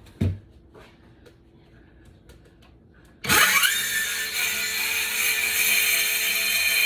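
A thump near the start, then about halfway through a cordless DeWalt circular saw spins up with a rising whine and runs on steadily, cutting through the wooden floor.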